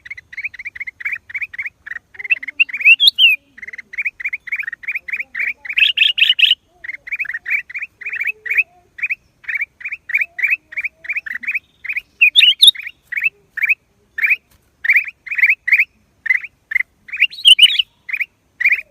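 Black-crested bulbul calling: a fast, even run of short notes, about four to five a second, with a few higher, busier phrases breaking in now and then.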